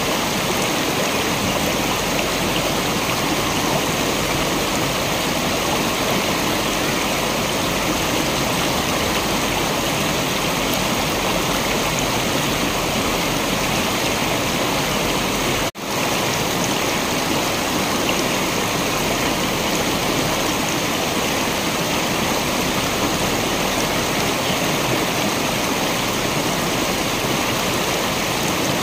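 Waterfall water rushing in a steady, even wash of noise, which dips out for a split second about halfway through.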